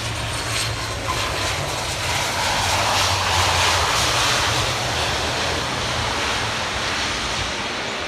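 Airplane passing, its engine noise swelling to its loudest about three to four seconds in and then slowly easing off, over a steady low hum.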